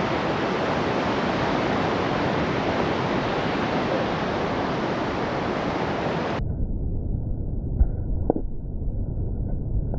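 Steady rush of sea surf and wind at the beach. About six seconds in the sound turns suddenly muffled and rumbly, with two sharp knocks a moment apart.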